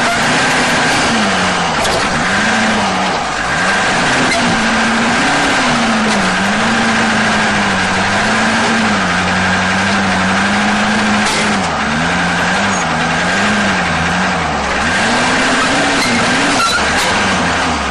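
Off-road competition truck engine revving up and down over and over, its pitch rising and falling every second or two as the throttle is worked, with a steady high whine above it.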